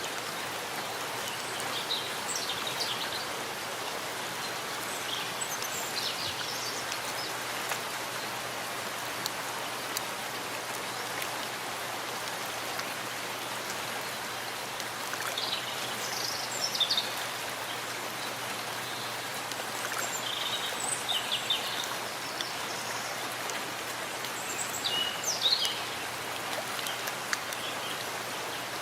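Steady rain falling in a forest, an even hiss of drops, with short high chirps standing out several times.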